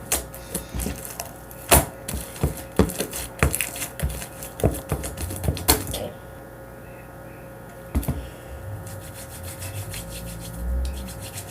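Sticky slime being kneaded and pulled by hand, giving a run of sharp, irregular clicks and pops for about six seconds, then quieter, duller handling sounds.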